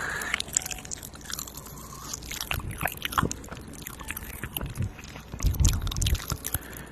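Close-miked ASMR mouth sounds: wet clicks and chewing-like smacks of mock eating, with heavier low thumps near the mic about five and a half seconds in.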